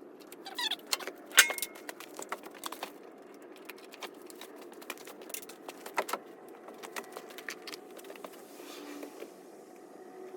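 Scattered clicks, clinks and knocks of small metal parts and tools being handled, irregular and sharp.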